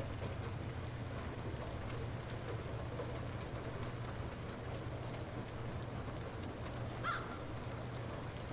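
Light rain falling steadily, with scattered small drips over a constant low rumble. A single short bird call sounds about seven seconds in.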